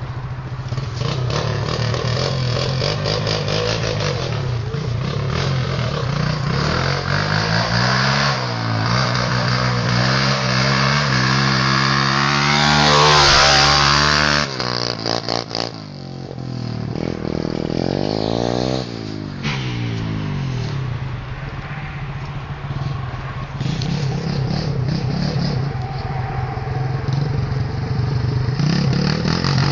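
Pit bike engine idling and being revved several times: two short revs that rise and fall, and one longer rev about halfway through that climbs for a couple of seconds and then drops off sharply back to idle.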